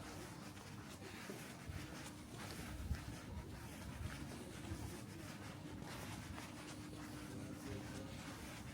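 Faint outdoor background sound, recorded while walking: a low, even noise with a faint steady hum and scattered light clicks.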